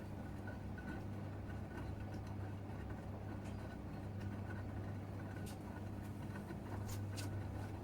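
Gorenje UseLogic 65165 washing machine running mid-cycle: a steady low motor hum as the drum turns, with a few faint short clicks.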